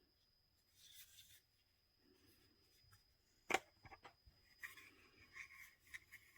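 Near-silent room with faint handling noise: one sharp click about three and a half seconds in, then a few lighter clicks and soft rustling.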